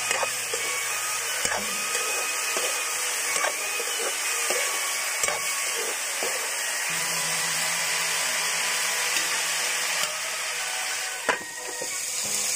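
Pork frying in a pan with a steady sizzle, a spoon or spatula knocking and scraping against the pan every second or two, and a louder knock about eleven seconds in.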